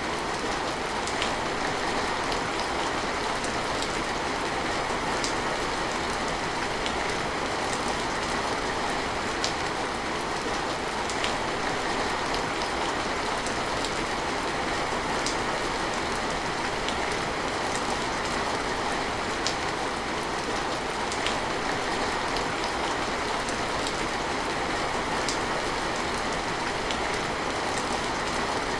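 Steady rain falling, an even hiss with scattered sharp drip ticks here and there.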